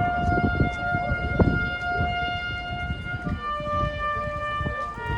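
A brass instrument playing a slow call of long held notes: one note held for about three seconds, then a lower note, then a lower one again near the end. Low rumbling noise runs underneath.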